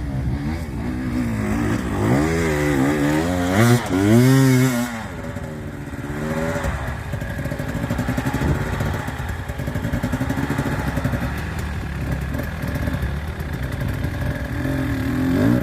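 Dirt bike engine being revved several times in quick succession, its pitch rising and falling, then settling to a lumpy, uneven idle with a few light blips, and revving up again at the end.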